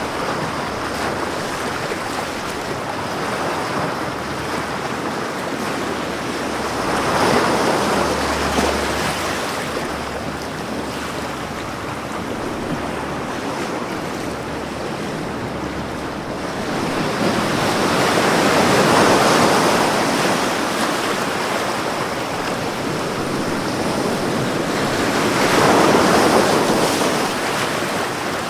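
Ocean waves breaking on a beach, a steady wash of surf that swells with three larger waves, about 7 seconds in, around 19 seconds and near the end.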